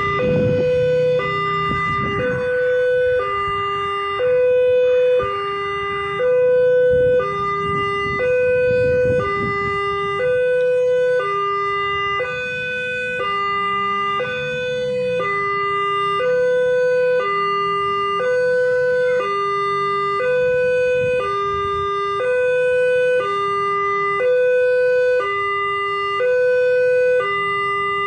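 Railway level crossing warning alarm sounding a two-tone electronic signal, a higher and a lower tone alternating about once a second, with vehicle engine rumble beneath it in the first several seconds.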